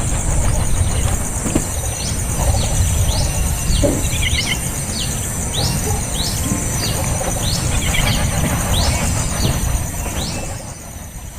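A young bird's begging calls: short, high chirps repeated about twice a second, which stop about a second before the end. A steady high-pitched buzz and a low rumble run underneath.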